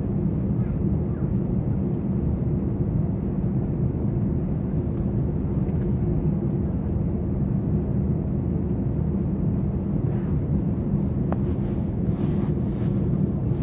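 Steady, loud low drone of a passenger aircraft heard from inside the cabin, with a constant hum.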